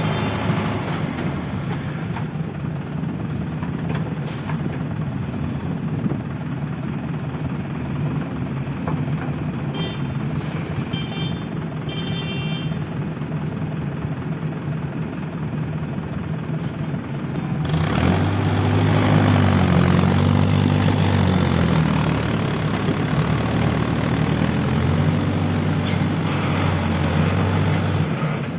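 Diesel engines of a tractor and a JCB backhoe loader running, a heavy steady drone that grows louder and works harder about eighteen seconds in, as the machines strain against the mud.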